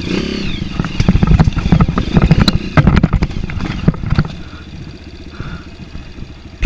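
Off-road vehicle engine running over a rough dirt trail, with many knocks and rattles from the bumps. It eases off about four and a half seconds in.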